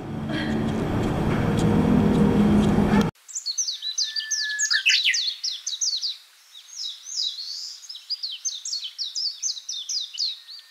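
Background hum and crowd noise for about three seconds, cutting off suddenly. Then a songbird sings a fast run of short, high, falling chirps, repeated many times.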